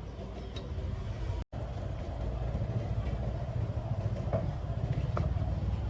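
Small two-stroke cultivator engine running steadily. The sound drops out for a moment about a second and a half in, then carries on.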